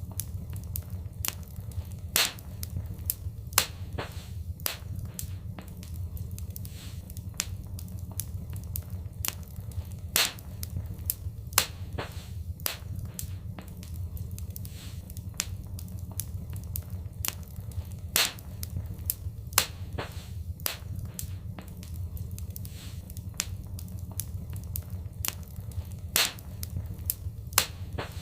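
Wood fire in a fireplace crackling: irregular sharp pops and snaps, a few much louder than the rest, over a steady low rumble of burning.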